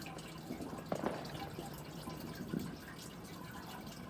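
Distant fireworks popping and crackling over a steady hiss, with a sharper pop about a second in and another a little past the middle.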